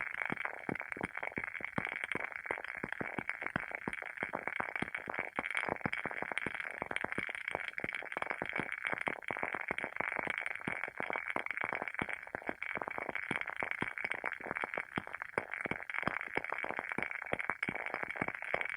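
WoodWick candle's wooden wick burning with a dense, continuous crackle of quick irregular pops over a steady hiss.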